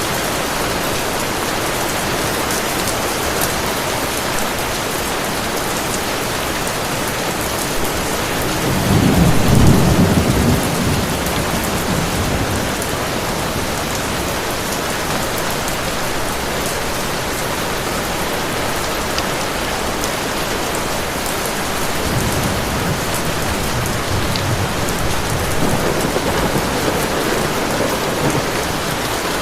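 Heavy rain falling steadily, with a low roll of thunder that swells about a third of the way in and fades over a few seconds, and a softer rumble of thunder later on.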